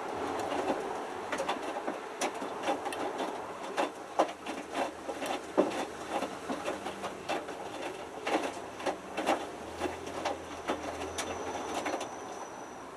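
A Hotpoint Futura HF8B593 washing machine tumbles its drum during the main wash. Water sloshes and splashes with irregular clicks and knocks as the small load drops. The tumble ends shortly before the end and the sound falls away.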